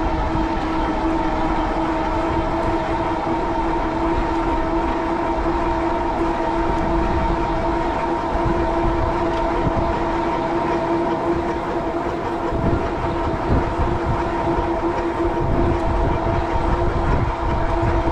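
Cyrusher Kommoda fat-tire e-bike riding at a steady speed: a constant whining drone, with wind rumbling on the microphone that gets stronger over the last few seconds.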